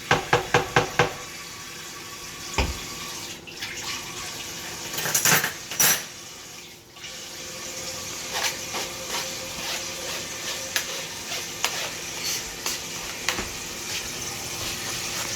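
A utensil clinking and scraping against a pot as leftover sea moss gel is scooped out into a blender. There is a quick run of about six taps in the first second, a single knock near three seconds, then scattered small clicks.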